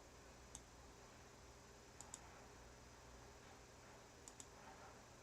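Faint computer mouse clicks over near silence: a single click, then two quick double clicks about two seconds apart.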